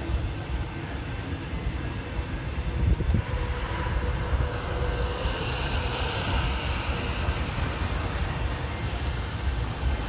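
Metro Trains Melbourne electric suburban train passing close by, its carriages rumbling steadily over the rails. A brighter hiss swells in the middle of the pass.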